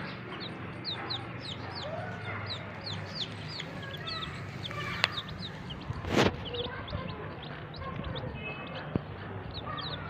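A group of chicks peeping, a dense run of short high cheeps overlapping throughout, over a steady low hum. About six seconds in there is a brief loud rustling noise.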